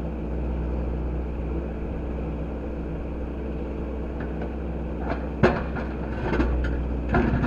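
Heavy earthmoving machine's engine running steadily under load. From about five seconds in, knocks and clatter break in, with one sharp knock standing out, as the machine works at the rocks.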